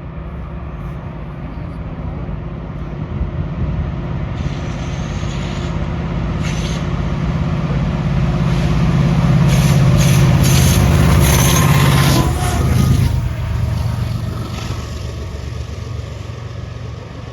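Diesel locomotives of a passing CPKC freight train running. The engine rumble builds to a peak about ten seconds in and then eases off, with rapid clicking and clatter from the wheels and rails through the middle and a brief high squeal near the peak.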